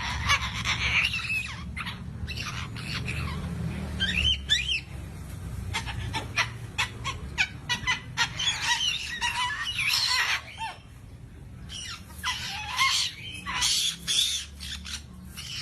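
A bird calling and squawking over and over, in short calls that bend up and down in pitch, with many sharp clicks among them and a low steady hum underneath.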